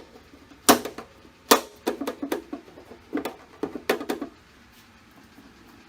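A series of sharp clicks and knocks, some single and some in quick clusters, stopping a little after four seconds in.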